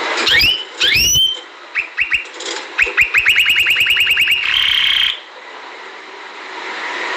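Domestic canary singing: two quick rising whistles, then a fast trill of repeated notes at about eight a second, ending in a short buzzy note about five seconds in, over a steady hiss.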